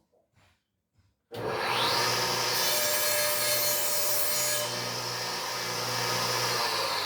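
An electric power tool switches on about a second in, its motor whine climbing quickly to full speed. It runs steadily, sawing or rubbing at wood, then begins to wind down near the end.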